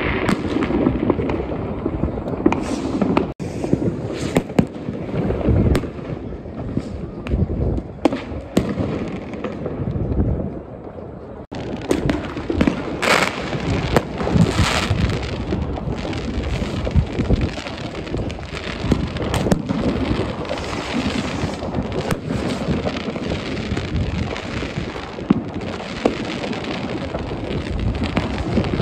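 New Year's Eve consumer fireworks going off all around: a continuous stream of bangs, pops and crackling in quick succession. It eases for a moment about ten seconds in, then grows denser again.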